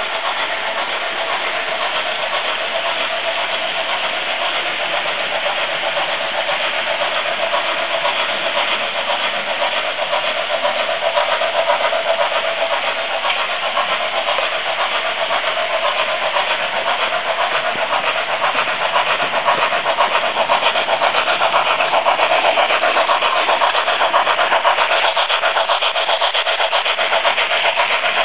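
Märklin model train running on its track: a steady electric-motor whir with fine, fast rail clatter, getting a little louder in the second half.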